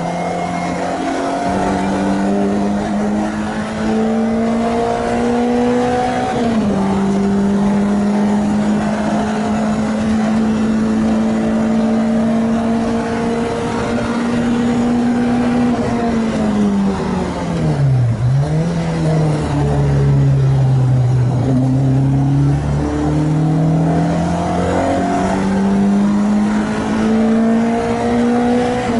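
Renault Clio 2 RS naturally aspirated 2.0-litre four-cylinder, freshly rebuilt and on its first track test, pulling hard through the gears. It upshifts about six seconds in and holds high revs, then revs fall away under heavy braking with blipped downshifts. It picks up and climbs again with another upshift near the end.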